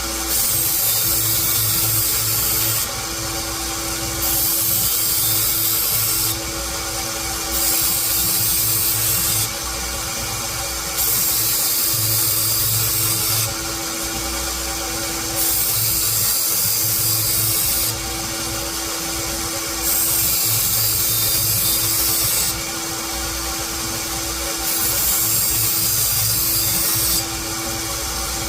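Power grinder, most likely a knifemaker's belt grinder, running steadily while a steel blade is pressed to the belt in about seven even passes. Each pass adds a loud grinding hiss for two seconds or so, then the blade is lifted and only the motor hum is left for a second.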